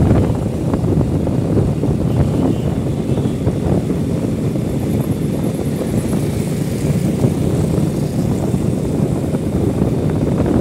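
Steady rumble of a motorcycle ride, mostly wind buffeting the microphone over the engine and road noise.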